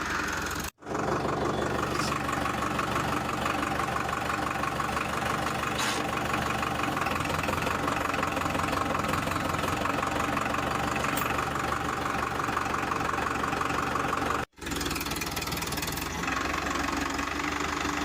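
A tractor engine running steadily with a fast, even beat, cut off twice for an instant.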